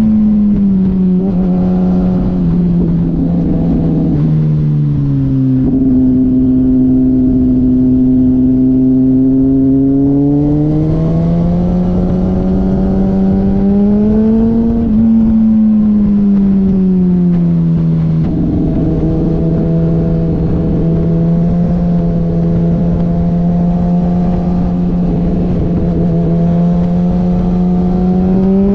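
Motorcycle engine under way. Its pitch steps down twice in the first six seconds, climbs from about ten seconds in, falls off again around fifteen to eighteen seconds, holds steady for about ten seconds, and rises again near the end. A steady rushing noise runs underneath.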